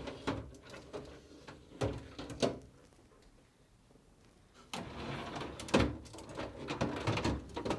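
Two plastic refrigerator crisper drawers being pulled out along their slides and lifted free, one after the other: a sliding scrape with a few sharp plastic knocks, then a short pause, then the same again.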